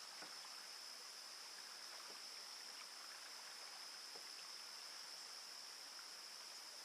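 Faint water sounds of a canoe paddle working the water, three soft strokes about two seconds apart, over a steady high-pitched insect chorus.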